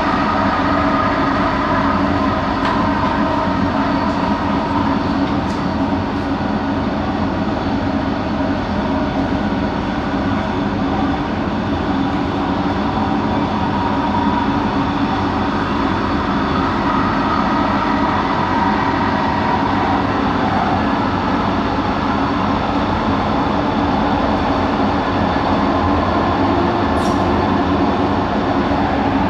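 Bombardier Innovia ART 200 metro train running, heard from inside the car: a steady rumble with several steady humming tones from its linear induction motors.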